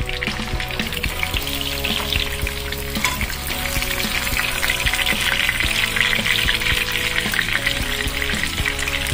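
Breaded pork chop shallow-frying in hot oil in a nonstick pan: a steady sizzle and bubbling that grows louder about halfway through.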